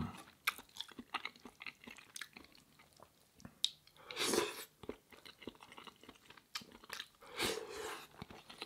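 A person chewing a mouthful of curry and rice, with many small wet mouth clicks and smacks. Two longer, louder noisy swells come about four and seven and a half seconds in.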